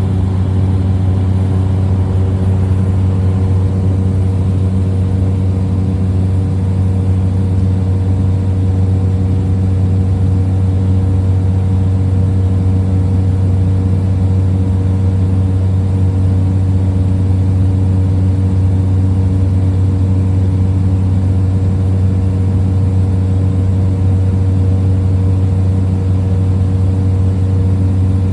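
Small plane's engine and propeller droning steadily in flight, heard from inside the cabin, with an even, deep hum.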